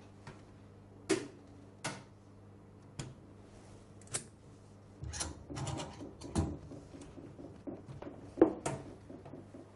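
Scattered sharp clicks and knocks of hard objects being handled and set down: single knocks every second or so, and a small cluster about five to six and a half seconds in.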